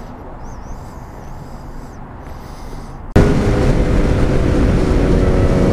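Low road and background noise, then about three seconds in a sudden jump to a loud, steady vehicle engine drone with rushing noise.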